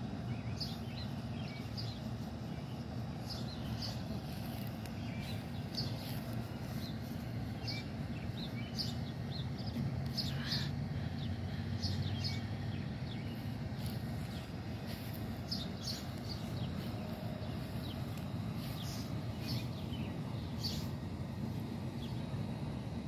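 Birds chirping, with short calls coming again and again, over a steady low outdoor rumble.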